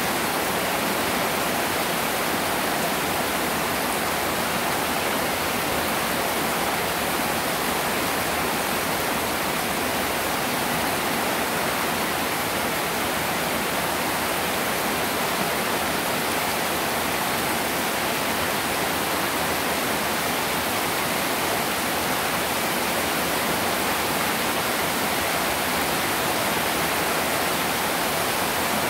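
Heavy tropical downpour falling onto standing floodwater: a dense, steady hiss of raindrops striking the water's surface, unbroken throughout.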